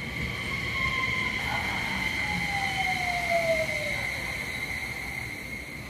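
Electric train's traction motors whining as the train brakes, the whine falling steadily in pitch over about four seconds, over a steady high whine.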